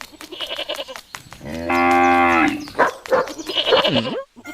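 A cow mooing: one long, loud, steady call about two seconds in, with shorter animal or voice sounds around it.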